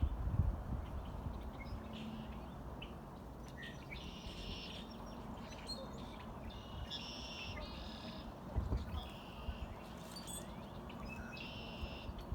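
Bird giving a series of short calls, repeated every second or two, over a low rumble.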